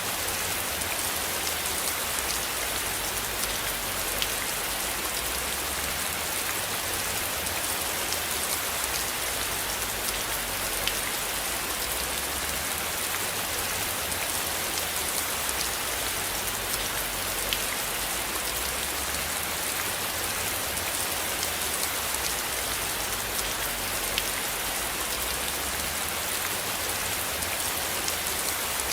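Steady rain falling on a surface, an even hiss with a few sharper single drops ticking through it.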